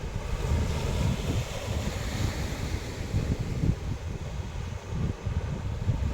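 Sea wind buffeting the microphone with a gusting low rumble, over the hiss of waves washing on the shore. The wash swells about two seconds in.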